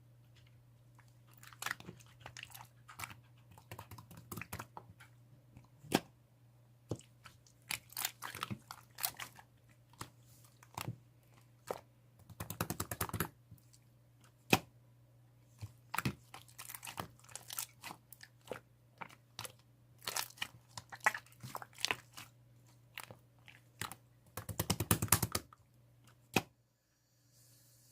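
Slime being squished and poked by hand, giving scattered sharp clicks and pops. There are two denser bursts of crackling, about twelve and twenty-four seconds in, and the sounds stop shortly before the end.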